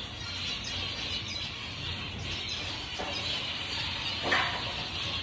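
A flock of small aviary birds chirping continuously in a dense chatter, with one louder call a little after four seconds in.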